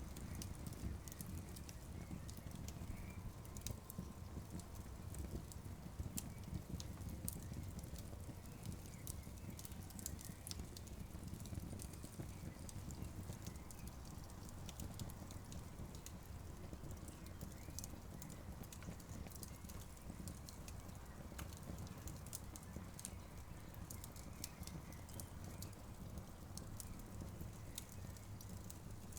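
Campfire crackling, with many small sharp pops scattered irregularly over a steady low rumble of the burning fire.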